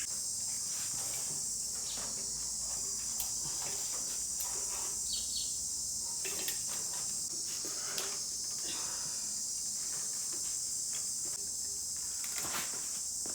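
Steady high-pitched trilling of crickets, with a few faint knocks.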